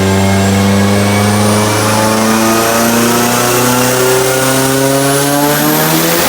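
Car engine running under steady, gentle acceleration, its pitch slowly rising, with a faint high whine climbing alongside it.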